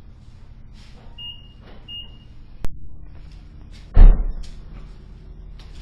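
A car door slamming shut about four seconds in, the loudest sound, over a car engine idling steadily; a sharp click comes a little over a second before the slam.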